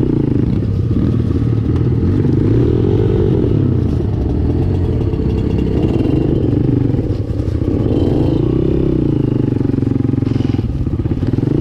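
Dirt bike engine ridden over rough woodland trail, revving up and falling back every couple of seconds, with clattering from the bike.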